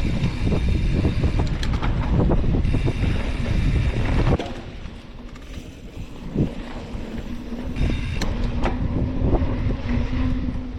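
Wind buffeting an action-camera microphone over the rumble of bicycle tyres on a rough trail, with frequent rattles and knocks from the bike; it eases off for a few seconds midway, then picks up again.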